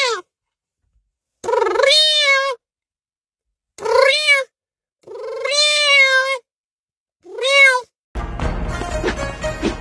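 Four drawn-out meows, each rising then falling in pitch, with short silences between them. Music starts about eight seconds in.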